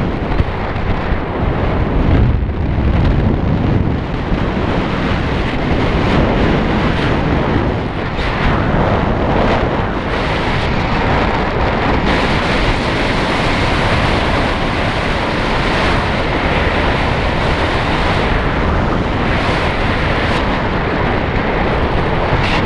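Strong, steady wind rushing over the microphone, a dense roar with no engine tone in it, typical of airflow during a paraglider flight.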